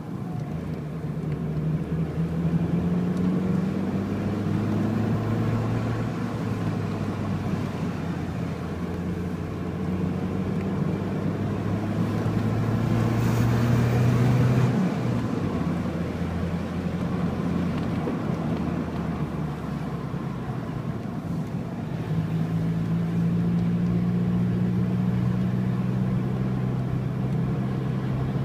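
Car engine running under varying load while driving, its note rising and falling with speed. It climbs to its loudest about halfway through, drops suddenly as the revs fall, and holds a steady drone near the end.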